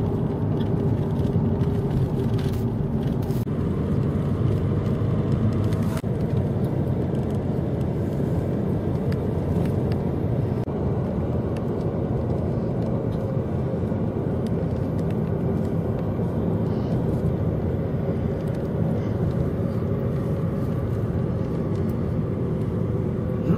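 A car running steadily, a low engine hum with road noise.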